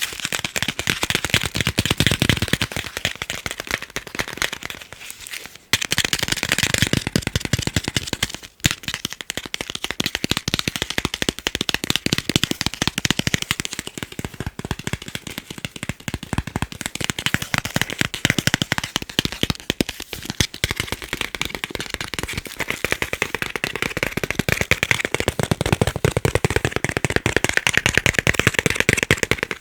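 Fast, continuous tapping on chocolate: a dense run of quick light clicks, with brief pauses about five and eight and a half seconds in.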